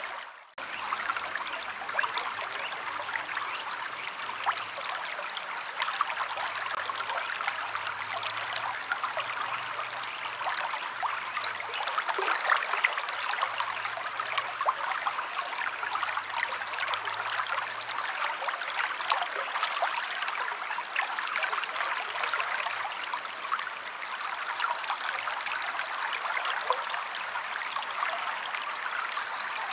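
River water flowing and splashing steadily, a dense rush with constant fine splashes, with faint short bird chirps now and then. The sound cuts out for a split second just after the start.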